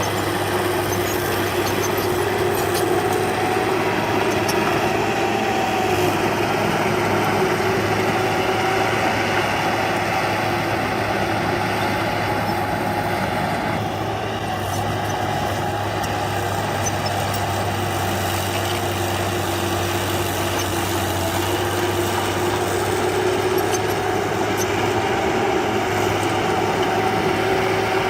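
Diesel engine of heavy earthmoving machinery running steadily, a continuous drone with a slight dip in level about halfway through.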